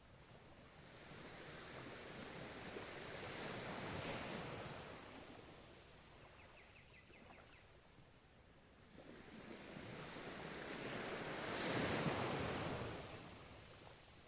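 Ocean waves breaking and washing ashore: two waves, each swelling over a few seconds and then falling away. The second, a little louder, peaks near the end.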